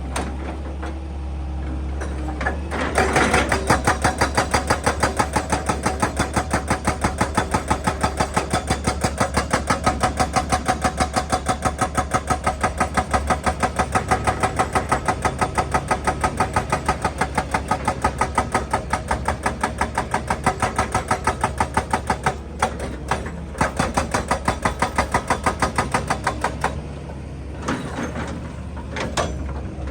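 Excavator-mounted hydraulic breaker hammering rock in a fast, even rhythm over the excavator's running engine. The hammering starts about three seconds in, breaks off briefly once, and stops again near the end.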